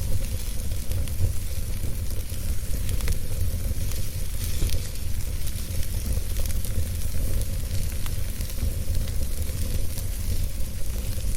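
Wood fire burning: a steady low rumble of flame with many small, irregular crackles and pops throughout.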